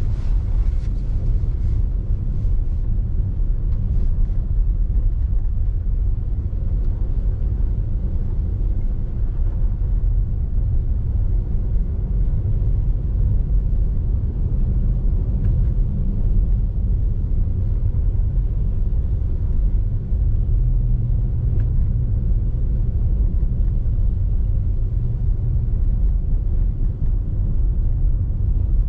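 Steady low rumble of a car driving on snowy roads, heard from inside the cabin: engine and tyre noise at an even cruising speed.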